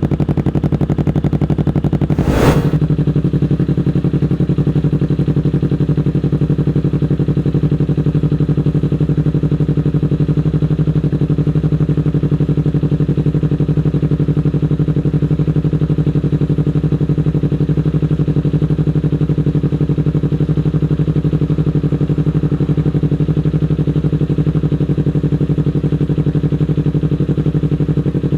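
Kawasaki Ninja 250 Fi parallel-twin engine idling steadily, with one brief sharp sound about two and a half seconds in.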